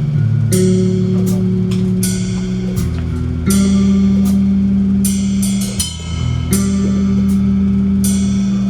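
Rock band playing an instrumental passage: a drum kit with repeated cymbal crashes over sustained bass and guitar chords that change every couple of seconds.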